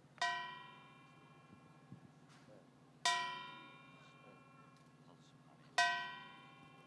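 A single struck or plucked instrument sounding three separate notes about three seconds apart, each ringing out and fading, over a low steady hum.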